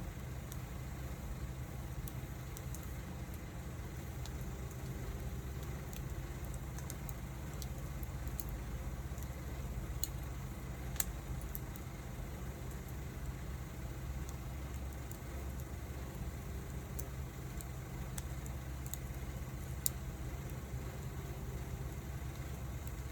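Wood fire burning with a steady low rumble and sparse crackles, and two sharper pops, one about halfway through and one a few seconds before the end.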